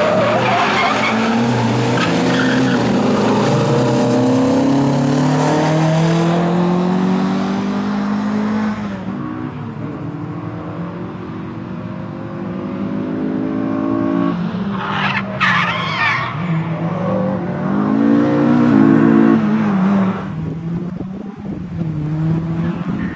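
Renault Clio's engine revving hard, its pitch rising and dropping back again and again as it changes gear, with tyre squeal as the car slides. It fades as the car moves away, then a short, high tyre squeal comes about two-thirds of the way in, and the engine grows loud again as the car comes back.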